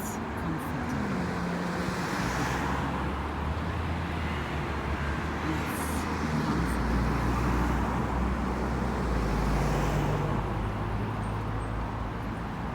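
Road traffic noise: a steady rush with a low engine hum, and a few vehicles going by.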